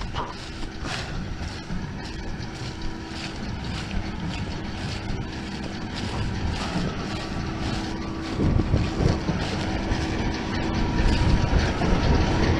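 John Deere 6190R tractor and Claas 3300 big square baler running while baling barley straw: a continuous low mechanical rumble with a steady hum, growing a little louder in the last few seconds.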